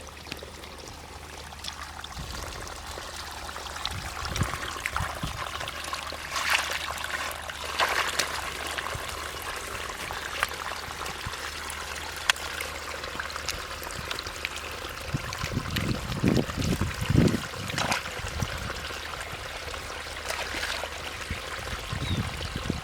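Water trickling and splashing in a flooded rice field, with several low sloshing thuds past the middle.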